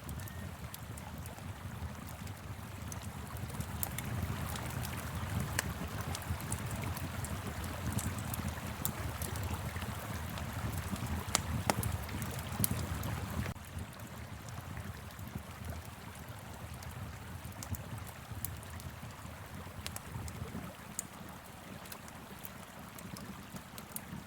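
Wood fire crackling with scattered sharp pops over the steady rush of a flowing river. A low wind rumble eases off a little past halfway.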